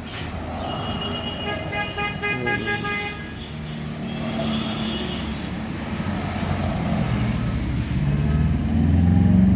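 A vehicle horn sounds for about two seconds near the start over traffic noise. Then a vehicle's engine rumble grows louder toward the end.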